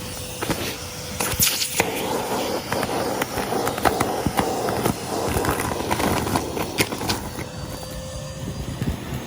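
Henry vacuum cleaner picking up crunchy debris, with a dense run of clicks and rattles as bits are sucked up. A faint steady motor tone shows through in places.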